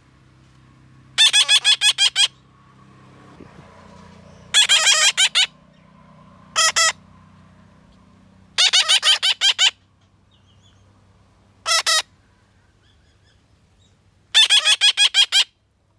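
A bird calling in six bursts of fast, harsh repeated notes, most lasting about a second and two much shorter.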